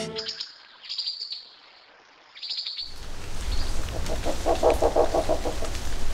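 Birds chirping in short, high notes over near quiet. About three seconds in, a steady outdoor background with a low rumble comes in, and a quick run of lower repeated call notes sounds shortly after.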